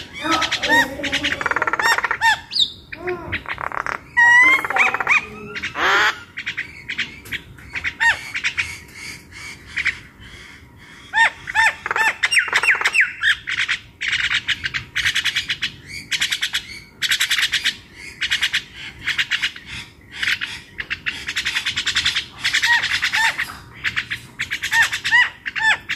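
Several birds calling together: many short chirps and harsh squawks in quick succession, almost without a break.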